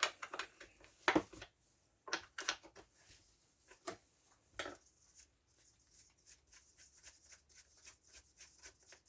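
Hands working on a chainsaw's bar and chain: light knocks and clicks of metal parts being handled, with a few louder knocks in the first five seconds, then a run of faint quick ticks.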